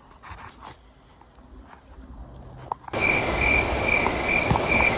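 Cricket chirping sound effect cutting in abruptly about three seconds in: a short high chirp repeating about two and a half times a second over a steady hiss. Before it, only a few faint clicks.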